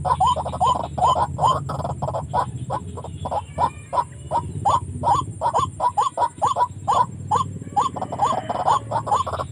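White-breasted waterhen calling: a long run of evenly repeated hooked notes, about three a second, over a lower continuous drone.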